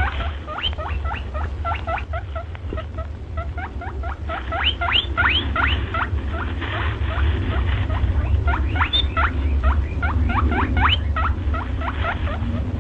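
Rabbit squeaking in a rapid run of short, upward-sliding squeaks, several a second, over a steady low hum.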